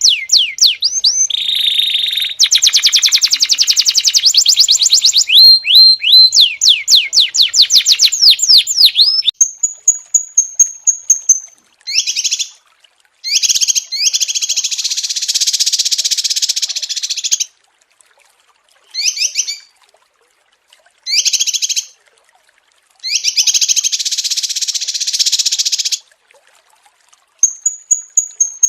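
Small songbirds singing: fast runs of high down-slurred whistles and rapid trills, then buzzy rattling phrases alternating with short high whistled notes and brief silences.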